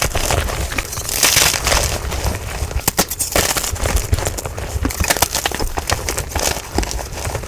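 Blocks of dyed gym chalk being crushed and crumbled by hand, a dense run of dry crunches and crackles with sharp snaps throughout, sped up to double speed.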